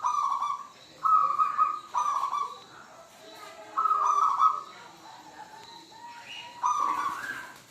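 Zebra dove (perkutut) cooing: a run of about five short, trilled coo notes with pauses between them, with faint high chirps of other small birds behind.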